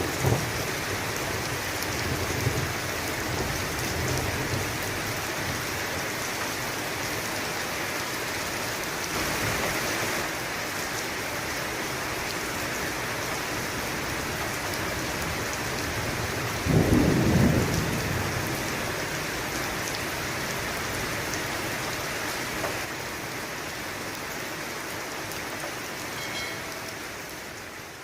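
Steady heavy rain with thunder: a low rumble near the start and a louder thunder crash about two-thirds of the way through. The whole sound fades out near the end.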